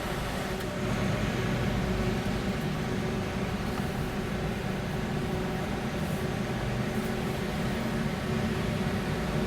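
Steady low mechanical hum of a car on a ferry's vehicle deck, heard from inside the car, with a few steady low tones running through it.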